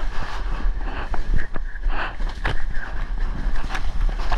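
Rushing water and wind buffeting a waterproof action camera's microphone while surfing a wave, a steady low rumbling wash with scattered sharp splashes and knocks.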